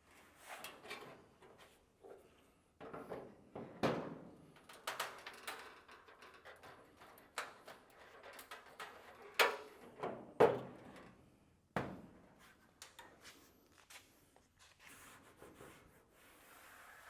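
Irregular clunks, knocks and rubbing from the steel trunk lid of a 1928 Ford Model A being worked by hand, with a few sharper knocks near the middle.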